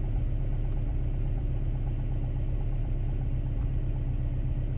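Toyota Tarago van's petrol engine idling steadily at about 1000 rpm, heard from inside the cabin.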